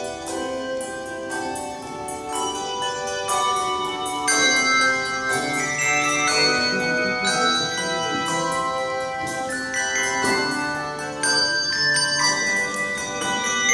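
Handbell choir playing a tune, many bells ringing in chords with each struck note sustaining and overlapping the next. The playing swells louder about four seconds in.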